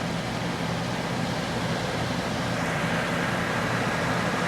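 2011 Amana 12,000 BTU window air conditioner running: a steady rush of fan air over a low hum, with a faint high steady tone.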